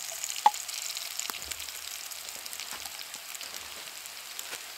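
Diced potatoes and sausage meat sizzling in hot oil in a cast-iron skillet, a steady fine crackling hiss. A single sharp tap about half a second in as the sausage meat is pushed off a wooden board into the pan.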